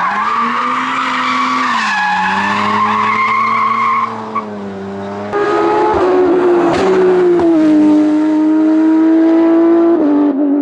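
A hillclimb race car's engine at high revs, its pitch holding and then stepping as it changes gear. It eases off about four seconds in, then comes back louder.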